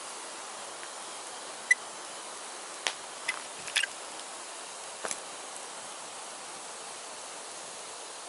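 Firewood burning with a steady hiss, broken by a handful of sharp crackles and pops in the first half.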